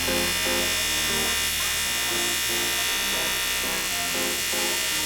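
Steady electric buzz of an aluminium welding arc, building up a worn kickstart lever, over background music with a rhythmic melody. Both cut off abruptly near the end.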